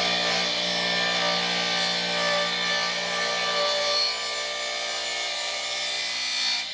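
A power tool running steadily against a workpiece: a constant rubbing hiss over the tool's motor hum, without a break.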